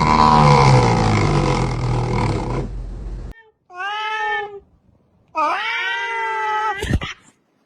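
Cat vocalising: a loud, low, drawn-out yowl that cuts off suddenly, then two meows, a short one and a longer drawn-out one, with a sharp click near the end.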